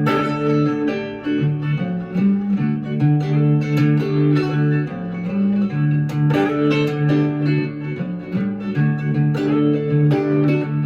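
Blues guitar playing an instrumental passage between sung verses: plucked notes over a repeating low bass figure.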